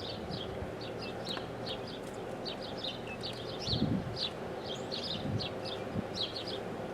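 Small birds chirping, short high chirps repeating several times a second. A few soft low bumps come about halfway through and near the end.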